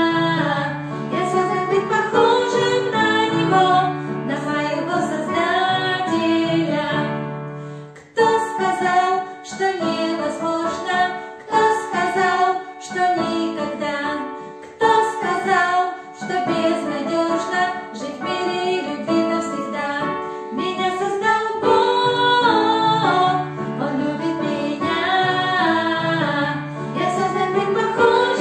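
A song: a woman singing over keyboard accompaniment, with a brief drop in level about eight seconds in before the music picks up again.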